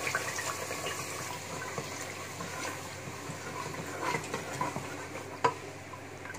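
Masala paste sizzling as it fries in hot oil in a pressure cooker, stirred with a wooden spoon that knocks against the pot now and then, sharpest about four seconds and five and a half seconds in. This is the bhuna stage, the spice paste being fried down in the oil.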